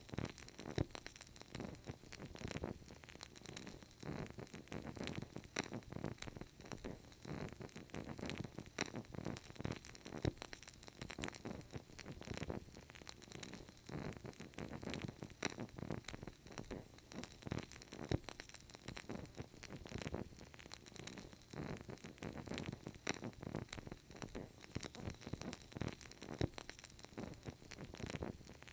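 Burning candle crackling: a dense, irregular stream of small crackles and soft pops that never lets up.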